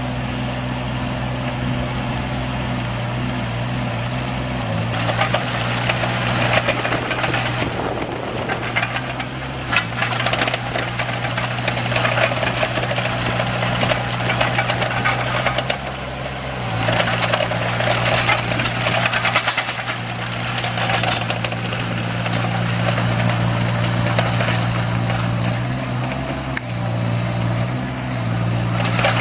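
2006 Kubota KX41-3V mini excavator's diesel engine running steadily, with long stretches of louder, rough mechanical noise laid over it and the engine note shifting a few times as the machine is worked.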